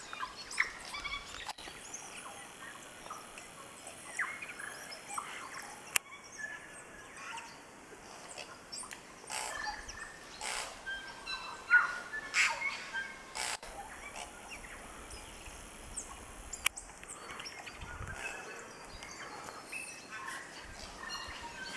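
Forest birds calling from the canopy: scattered short chirps and gliding whistled notes, with a few sharp clicks among them.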